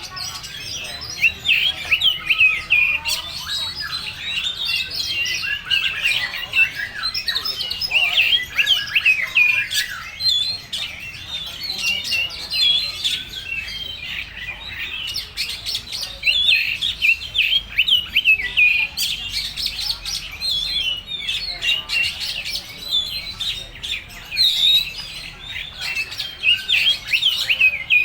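Oriental magpie-robin (kacer) singing a long, varied song of rapid chirps and whistles, packed with learned phrases mimicked from other birds. The song thins briefly around the middle, then runs on densely.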